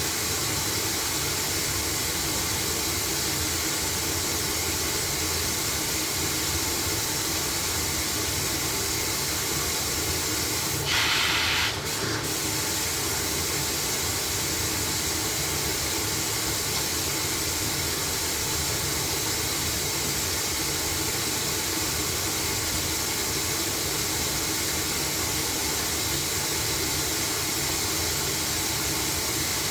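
LG washing machine running steadily mid-cycle with a load of blankets, a constant even noise, with a brief louder surge lasting about a second roughly eleven seconds in.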